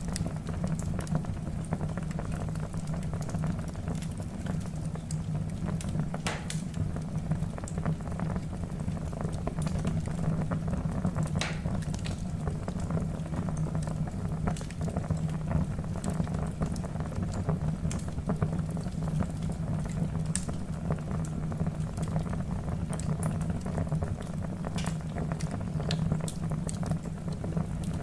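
Wood fire burning in a fireplace: a steady low rumble of flames with constant fine crackling. A few louder pops come through, about six, eleven and twenty seconds in.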